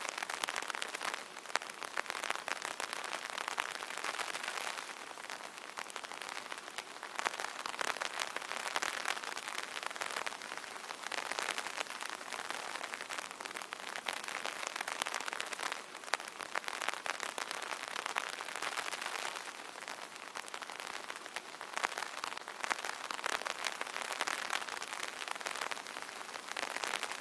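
Light rain pattering on an open umbrella: a dense, steady spread of drop ticks that swells and eases every few seconds.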